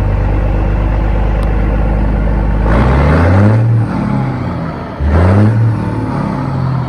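Caterpillar 3406C inline-six diesel in a 1994 Kenworth W900, idling shortly after a cold start, then revved twice. The first rev comes about three seconds in and the second about five seconds in; each rises in pitch and drops back to idle.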